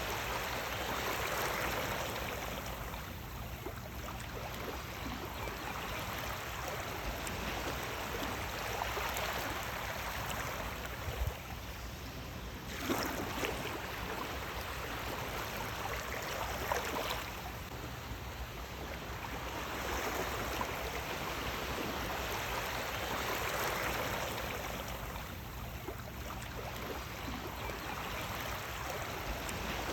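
Sea waves washing in, a rushing surf that swells and eases every six to eight seconds, with a few brief splashes.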